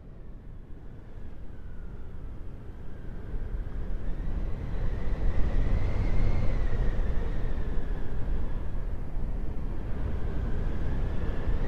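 Howling wind: a steady low rumble of gusts with a faint whistle that rises and falls in pitch. It swells in loudness over the first few seconds, then holds steady.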